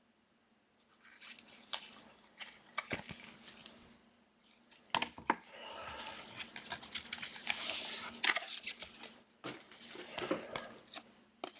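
Trading-card pack wrappers being torn open and crinkled, with cards handled: irregular crackling and rustling that swells about halfway through.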